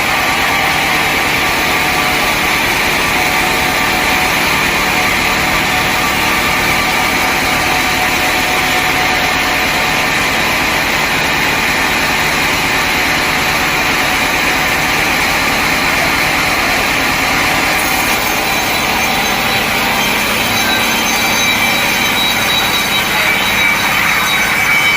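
Sawmill saw cutting through a log: a loud, steady noise with a high whine running through it.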